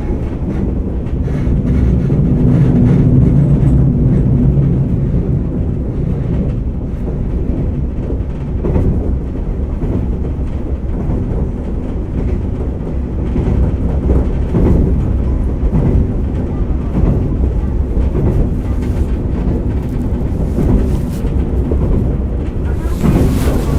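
KiHa 47 diesel railcar running, heard from inside the carriage and muffled by a pocket: a steady low rumble of the diesel engine and wheels on rail, the engine note strongest a few seconds in, with faint rail-joint clicks. A hiss comes up near the end.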